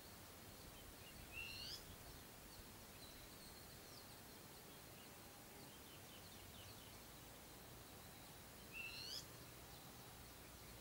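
A bird gives two short, rising whistled calls about seven and a half seconds apart. Faint chirping carries on between them, against quiet background noise.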